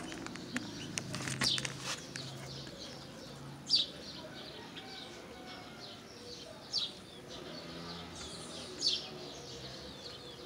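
A bird repeating a short, high, falling chirp every two to three seconds, four times. A few light clicks from hands handling the pump's cable near the start.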